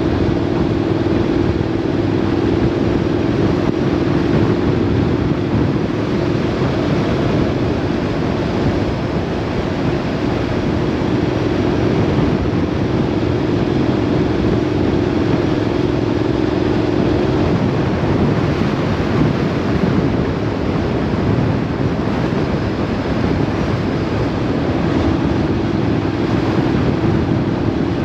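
Vehicle travelling on the road: steady wind and road noise with an engine hum, which drops away about two-thirds of the way through.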